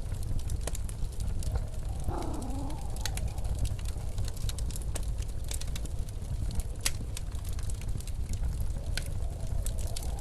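Wood fire crackling with frequent sharp pops over the steady low rumble of blizzard wind. A wavering howl of wind rises briefly about two seconds in and again near the end.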